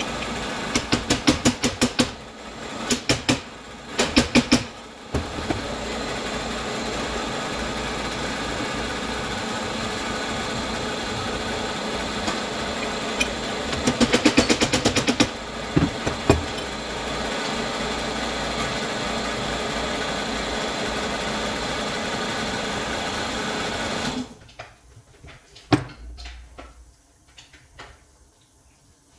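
A machine's motor running steadily, with short bursts of rapid clattering, then cutting off suddenly about 24 seconds in, followed by a few scattered knocks.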